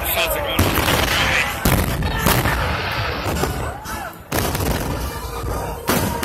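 Aerial fireworks bursting: about five loud booms with crackle between them, over music.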